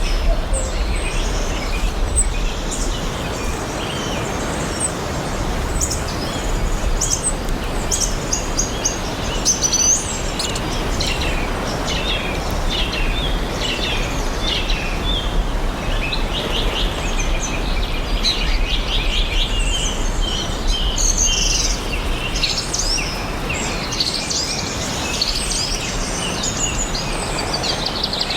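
Several songbirds chirping and singing together over a steady background hiss, the calls growing busier partway through.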